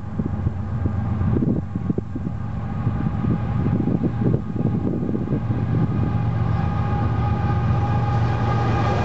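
An approaching Union Pacific freight train led by two diesel locomotives, its low engine drone and rail noise growing steadily louder. Wind buffets the microphone in the first few seconds.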